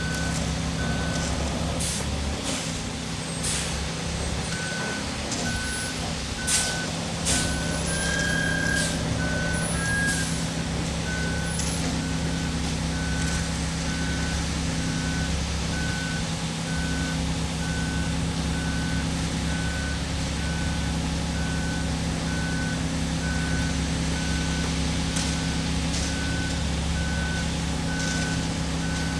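Concrete mixer truck's engine running steadily while its reversing alarm beeps about once a second. The beeping pauses for a few seconds near the start, and a few sharp knocks and clatters come during the first ten seconds.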